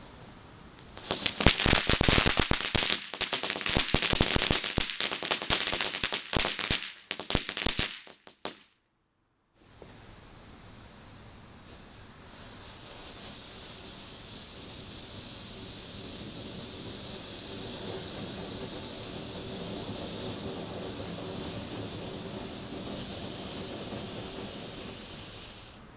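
Consumer ground fireworks: the first crackles with dense, rapid pops and cracks for about seven seconds, then cuts off. After a short silence, a fountain firework hisses steadily as it sprays sparks, dying away just before the end.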